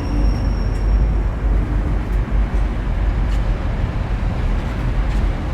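A Class 185 diesel multiple unit pulling out of the station, its diesel engines giving a deep, steady rumble. A thin high whine fades out about a second in.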